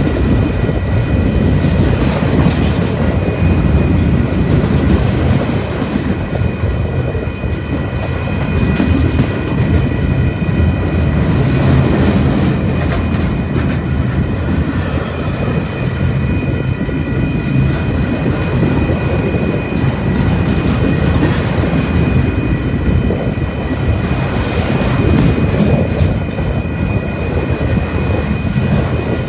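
Freight train of centerbeam lumber flatcars rolling past close by: a steady rumble of wheels on the rails, with a thin steady high tone running over it.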